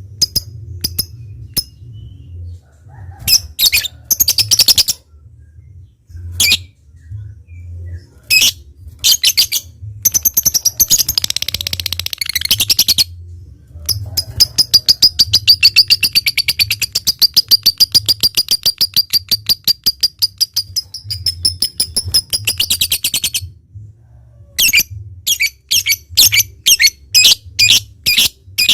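Lovebird singing: sharp, separate high chirps (the 'ngetik' notes), then from about halfway a long, rapid chattering trill lasting some nine seconds (the long 'ngekek' that bird-keepers prize), then more sharp chirps near the end.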